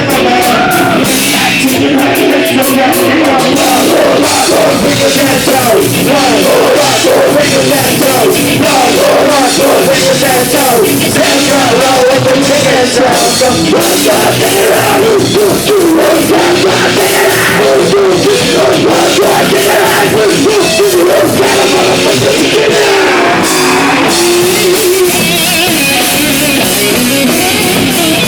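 A rock band playing live at full volume, heavy and punk-edged, with distorted electric guitar, a drum kit and shouted or sung vocals.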